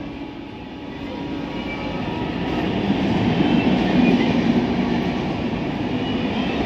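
An express train's red passenger coaches rolling past on the rails, a continuous rumble of wheels on track that grows louder over the first few seconds.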